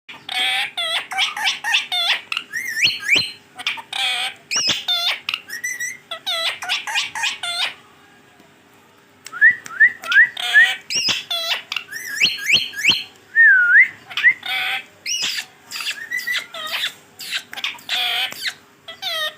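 Green ringneck parrot chattering and squawking in quick, speech-like bursts, mixed with short rising whistles. It pauses about eight seconds in, then resumes with four quick rising whistles and a looping whistled note.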